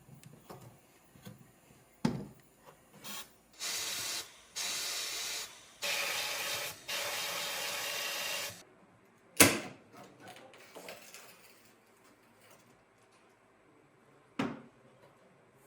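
Pressurised spray hissing in four bursts of about a second each, between a few sharp knocks; the loudest knock comes just after the spraying.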